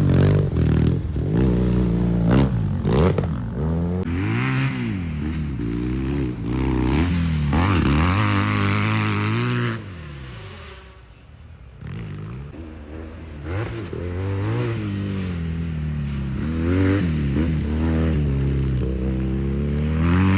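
Yamaha XTZ 750 Super Ténéré's parallel-twin engine revving up and down over and over as the bike is ridden off-road. About ten seconds in it drops away quieter for a couple of seconds, then picks up again.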